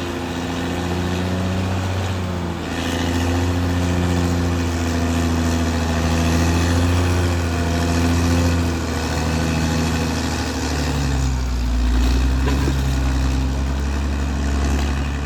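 Caterpillar D6R XL bulldozer's diesel engine running steadily while it works, with its note shifting pitch a few times.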